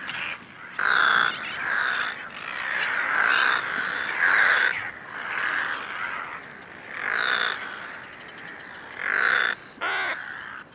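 A crowded colony of nesting sooty terns and brown noddies calling over and over, many birds at once, as parents quarrel over nest space.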